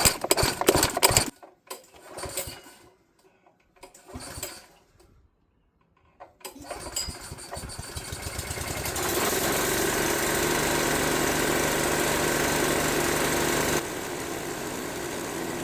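Honda GX gas engine on a portable air compressor being started on choke: a few short bursts with gaps between them, then it catches about six seconds in, picks up and settles into a steady run.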